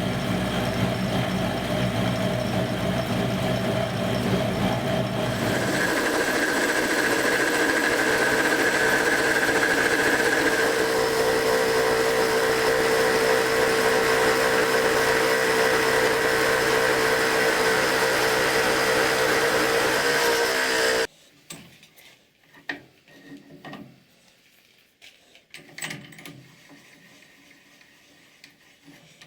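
A workshop power tool running steadily with a constant whine. Its tone shifts about five seconds in. It stops abruptly about 21 seconds in, followed by a few quiet clicks and knocks.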